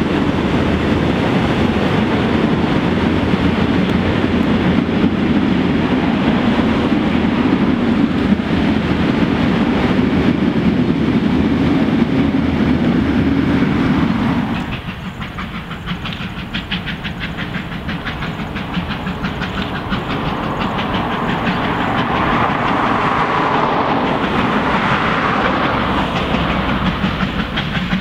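Passenger carriages of a steam-hauled train rumbling and clattering over the track as they pass close below. About halfway through the rumble drops away suddenly as the last carriage passes, leaving a fainter, fast, even beat from the receding train.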